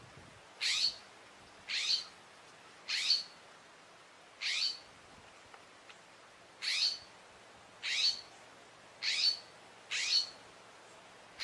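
A bird repeating a short, scratchy call about once a second, eight calls in all.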